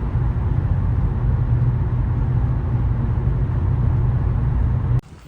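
Steady low rumble of a running vehicle that cuts off suddenly near the end.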